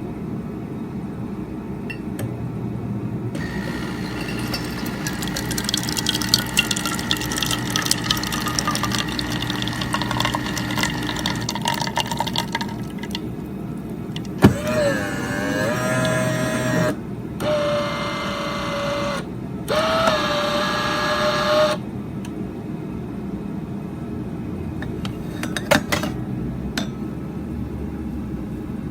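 Automatic espresso machine working through a brew cycle: a crackly, clicking grinding run lasting several seconds, then a steady pitched pump hum that starts and stops three times.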